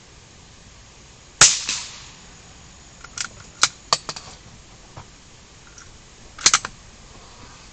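A single gunshot about a second and a half in, with a short trailing echo. It is followed by a string of sharp mechanical clicks and clacks, and a louder cluster of clacks near the end.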